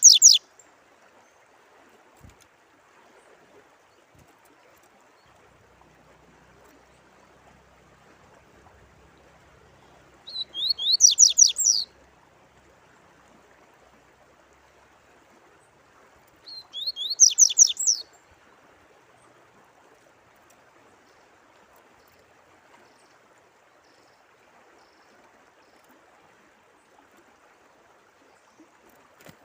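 A songbird singing short, fast phrases of rapidly sweeping high notes, three times: right at the start, about ten seconds in and about seventeen seconds in. A faint, steady trickle of running water runs underneath.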